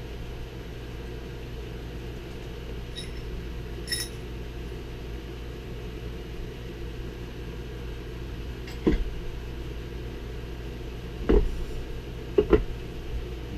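Steady low hum with metal differential parts being handled on a workbench: two light ringing clinks, then a few dull knocks near the end, the loudest sounds.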